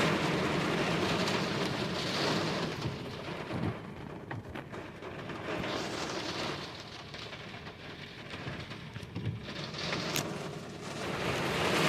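Strong gust-front winds and rain from a severe thunderstorm buffeting a car, heard from inside it. The rushing noise surges and eases in gusts and builds again near the end.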